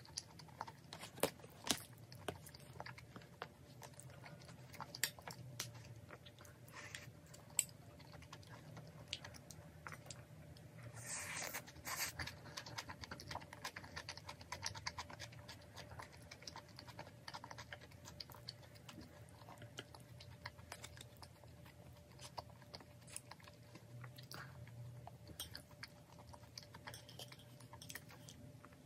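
Close-miked eating: steady chewing with crunchy bites into crusty garlic bread and soft cream pasta, punctuated by small clicks of a metal spoon and chopsticks against a ceramic bowl. The crunch is briefly louder about eleven seconds in.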